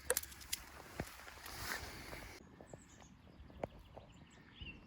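Footsteps and rustling through scrub, with a few scattered twig snaps. Faint bird chirps near the end.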